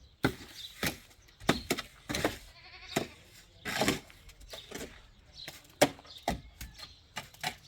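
Irregular short knocks and scrapes, about one or two a second, with sheep or goats bleating faintly now and then.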